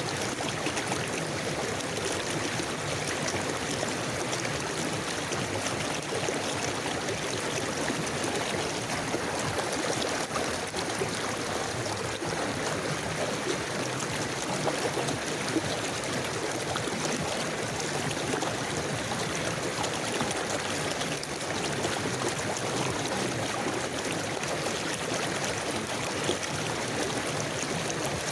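Forest river flowing steadily, water rushing and gurgling in an even, continuous noise.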